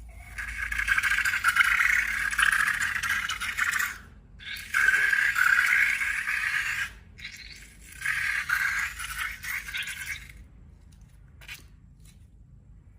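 Rattling, scraping noise in three bursts of a few seconds each, stopping about ten seconds in.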